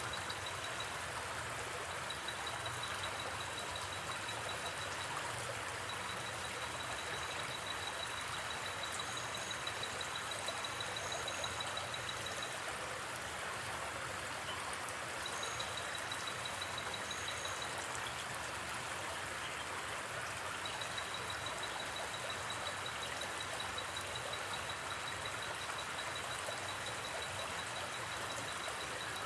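A gently flowing river running steadily, with a high, fast-pulsed trill that drops out and returns several times and a few brief higher chirps.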